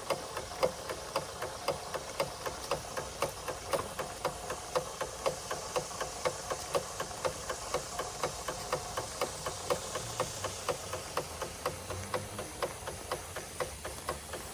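Märklin 4149/9 toy live steam engine running steadily under steam, its single cylinder and motion giving an even, rapid clicking beat of about four to five strokes a second.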